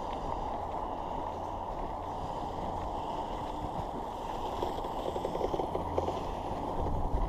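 Kyosho Blizzard RC snowcat running on dual 540 brushed motors with direct chain drive, over a steady rushing noise. Its tracks clatter quickly for a moment about five seconds in, and there are a few thumps near the end.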